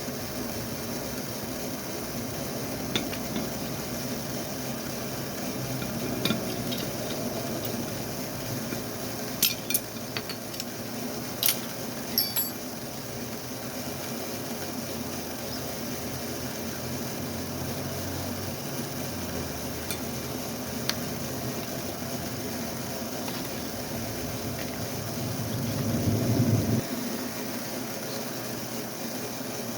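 A few sharp clicks and clinks of small metal parts being handled during assembly of a model truck, over a steady low hum, with a brief low rumble near the end.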